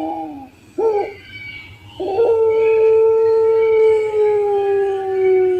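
Puter pelung dove cooing: two short wavering notes, then one long drawn-out coo that falls slowly in pitch and is held for more than three seconds.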